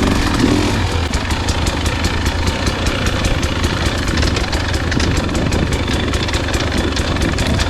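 Dirt bike engine running at low, steady revs, with rapid light clicks and clatter over it from about three seconds in.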